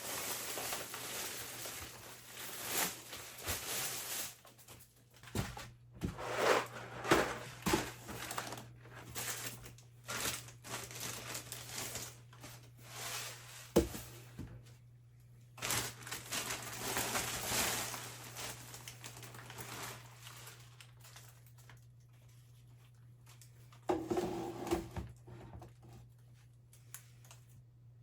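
Household items being handled: irregular rustling and crinkling, as of plastic or paper, with scattered sharp clicks and knocks, over a steady low hum. It thins out about two-thirds of the way through, with one more short burst of handling near the end.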